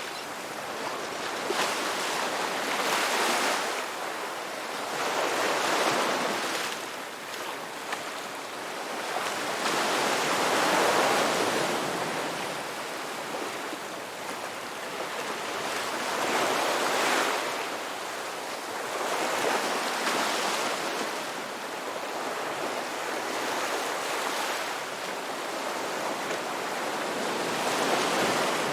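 Ocean waves breaking and washing up a beach: a steady rushing hiss that swells and fades every three to six seconds as each wave comes in.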